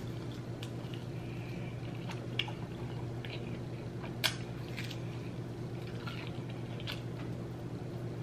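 Close-up chewing and biting of saucy fried chicken wings: wet mouth sounds and small crackles, with two sharper clicks about two and four seconds in. A steady low hum runs underneath.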